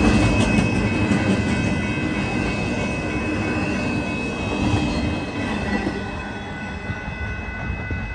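Union Pacific freight train's empty stack cars rolling past: a steady rumble and clatter of steel wheels on rail, with a steady high-pitched tone over it. The rumble drops off about six seconds in.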